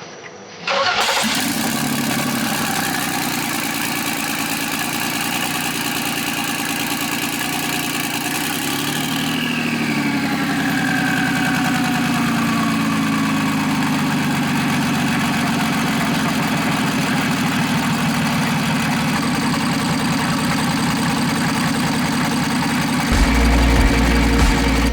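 Single-turbo BMW N54 inline-six cranking and catching about a second in, then running at a steady idle whose pitch falls and settles between about 9 and 13 seconds in. It is misfiring, which the owner puts down to failed injectors on cylinders one and two.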